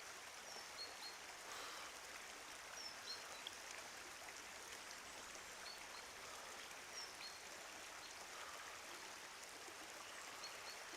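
Faint steady rush of running water, with short high bird chirps every few seconds.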